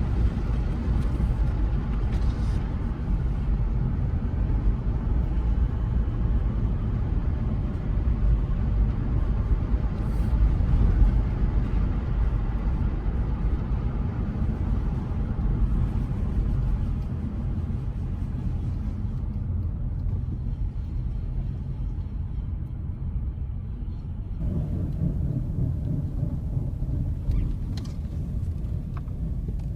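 Honda HR-V driving along a road: a steady low rumble of tyre and road noise, its tone shifting about three-quarters of the way through.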